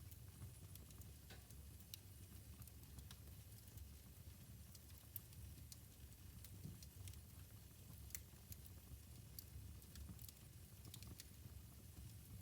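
Wood fire burning in a fireplace, crackling quietly: irregular sharp pops and snaps scattered over a low, steady rumble of the flames.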